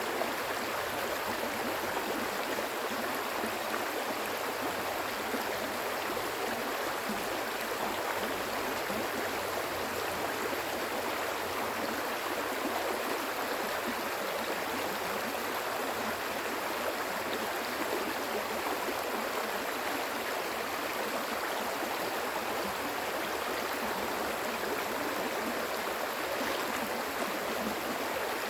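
Stream water flowing steadily over rocks, an even rushing and babbling with no change in strength.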